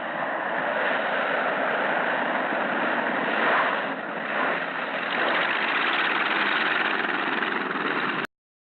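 Float-equipped L-19 Bird Dog's piston engine running, a steady noisy drone on an old film soundtrack, which cuts off abruptly about eight seconds in.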